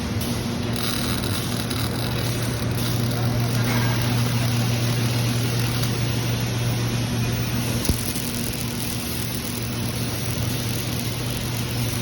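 Steady machine hum with a constant hiss from a robotic welding line, and one sharp click about eight seconds in.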